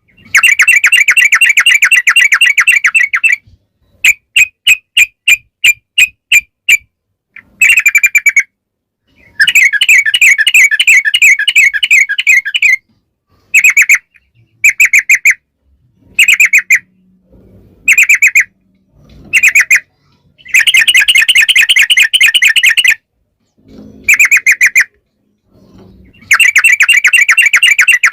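Yellow-vented bulbul (trucukan) singing loudly in long, fast rolling trills, a rapid bubbly chatter of repeated notes. The trills alternate with a spaced run of about eight single notes and short clipped phrases, with brief pauses between them.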